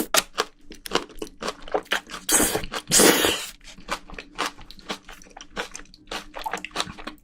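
Close-miked crunching and chewing of a mouthful of soybean sprouts from spicy braised seafood, in sharp, irregular crunches. Two longer, louder noises come about two and a half and three seconds in.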